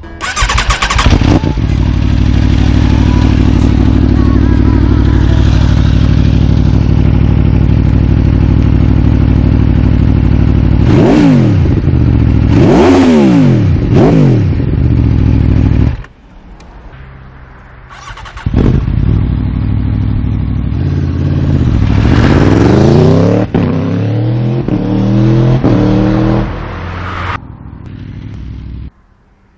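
Aprilia Tuono V4 Factory's V4 engine starting with a loud burst, running steadily, then being blipped up and down in several quick revs. After a sudden drop it picks up again with further rising revs before falling quiet near the end.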